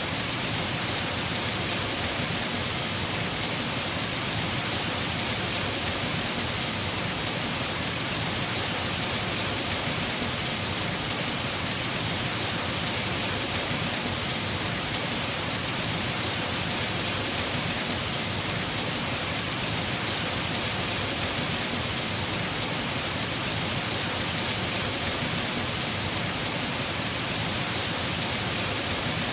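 Heavy rain falling on the roof of a house, a steady, even hiss with no breaks.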